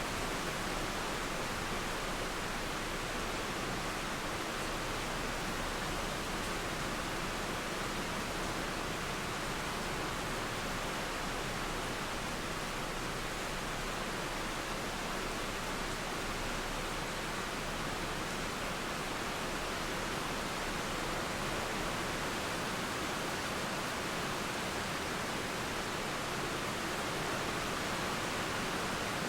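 Steady rain mixed with a flowing river: an even, unbroken hiss of falling water.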